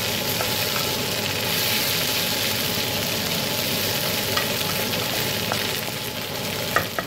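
Drumstick pieces, onion and garlic sizzling steadily in oil in a metal kadai as they are stirred with a spatula, with a few light clicks of the spatula against the pan.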